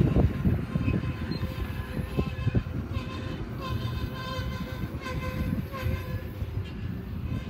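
Double-stack container train's well cars rolling past: steady rumble of steel wheels on rail with scattered knocks. A faint, wavering high tone rides over it for several seconds in the middle.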